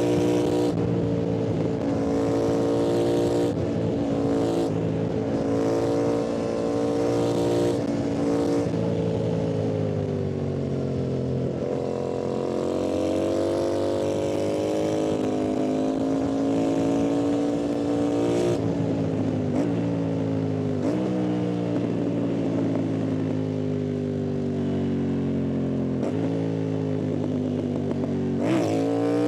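Yamaha MT-07's parallel-twin engine and exhaust under way, the pitch climbing with the revs and dropping at each gear change. There are several quick shifts in the first ten seconds, a long slow climb in pitch through the middle, and more shifts near the end.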